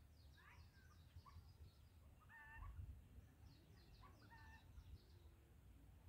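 Faint, distant birds calling: a few short pitched calls and scattered high chirps, over a low background rumble.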